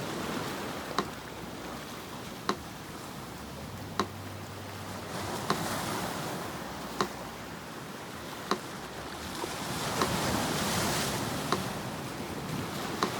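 Sea surf washing steadily, swelling about ten seconds in, with a metronome ticking slowly over it, one click about every second and a half.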